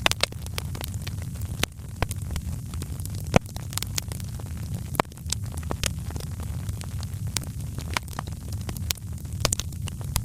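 Wood fire crackling: a steady low rumble of flames with frequent sharp pops and snaps, the loudest pop about three seconds in.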